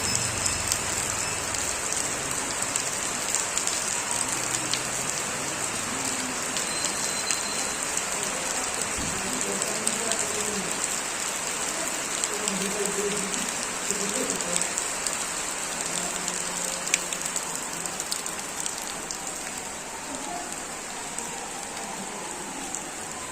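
Steady rain falling on surfaces, with scattered ticks of single drops. It eases slightly near the end.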